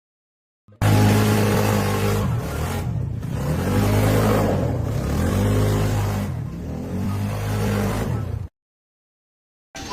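A motor running and revving up and down over and over, its pitch dipping and rising about every second and a half. The sound starts abruptly about a second in and cuts off suddenly near the end.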